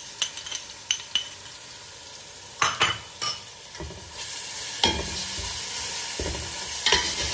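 Onions, garlic-ginger and ground green chillies sizzling in hot oil in a stainless steel pot, stirred with a metal slotted spatula that scrapes and clinks against the pot. The sizzle grows louder and steadier about four seconds in.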